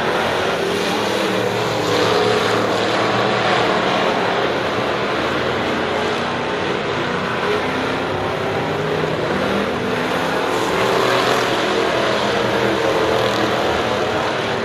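Several race car engines running at speed around the track, swelling louder as cars pass about two seconds in and again about eleven seconds in.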